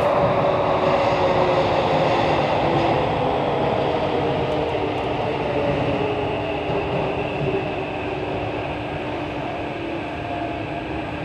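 SMRT CT251 metro train (Kawasaki–CRRC Sifang) running through a tunnel, with a steady rumble and several motor tones that slowly fall in pitch while the sound gets gradually quieter, as the train slows.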